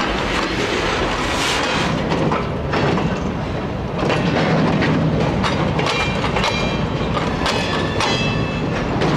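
Freight cars (boxcars and empty log flatcars) rolling past, their steel wheels clicking over rail joints with a steady rumble. A few short high squeals come from the wheels in the second half.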